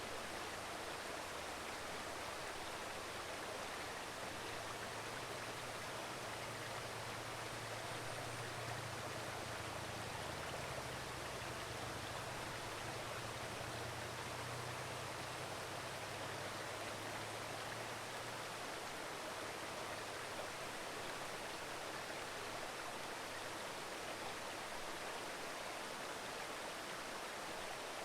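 Shallow mountain river babbling steadily over stones. A faint low hum rises and fades away in the middle.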